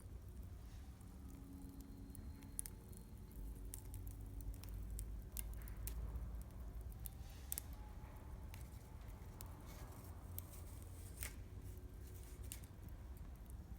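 Wood fire crackling, with sharp, irregular pops and snaps from the burning firewood over a low, steady rumble.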